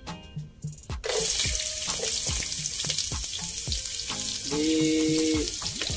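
Sliced shallots and garlic hitting hot oil in a frying pan: a sizzle breaks out suddenly about a second in and goes on as a steady hiss.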